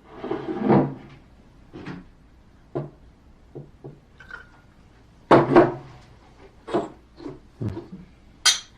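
A series of knocks and clatters of dishes and glasses handled on a table, ending with a sharp high clink of glass.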